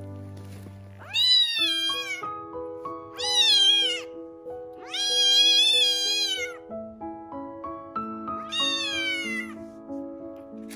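A young ginger kitten meowing four times, high cries that rise and fall in pitch, the third one the longest. Background music of evenly paced sustained notes plays under it.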